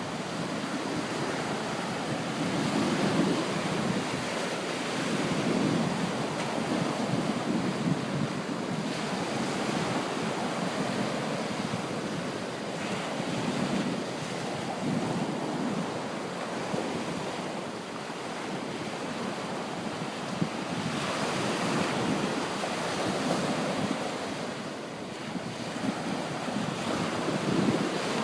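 Small waves washing on the shore, with wind buffeting the microphone in uneven gusts.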